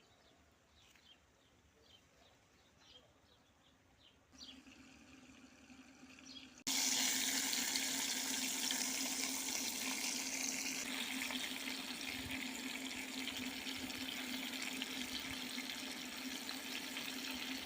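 Faint repeated bird chirps, then a steady rush of running water that starts suddenly about seven seconds in, with a low steady hum underneath.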